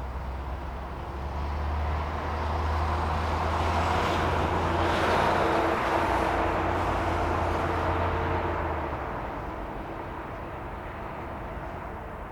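A vehicle passing by, growing to its loudest about five seconds in and then fading away, over a steady low engine hum that stops about nine seconds in.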